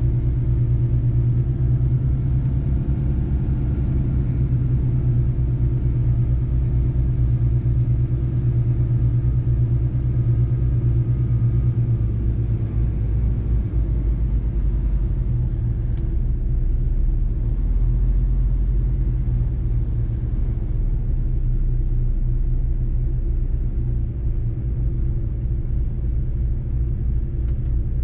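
Mercedes-Benz truck's diesel engine running steadily on the road, a low rumble throughout; its note drops lower about halfway through.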